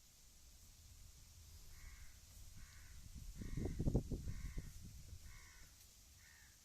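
A crow cawing six times, about once a second, while a low rumble swells and fades in the middle.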